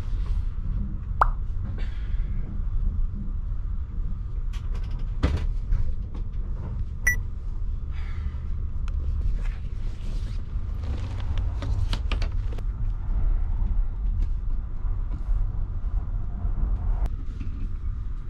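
Steady low rumble of a Kintetsu Hinotori electric train running, heard from inside the passenger car, with scattered rustles and clicks of a paper leaflet being handled and its pages turned.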